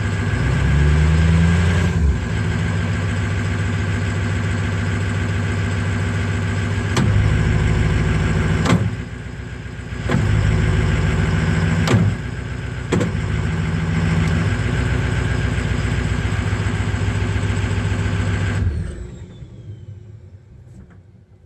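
Truck engine running steadily, its pitch rising briefly in a rev about a second in, with a few sharp clicks and a brief dip in level partway through. It shuts off near the end and the sound dies away.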